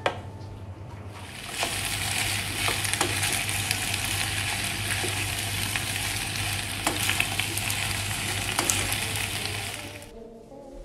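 A knock, then food sizzling as it fries in a pan, starting about a second in and stopping near the end, with a few light clicks of a utensil stirring it.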